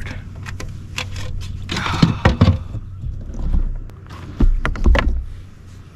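Irregular knocks, scrapes and a few heavy thumps of gear being handled aboard a kayak, over a steady low hum.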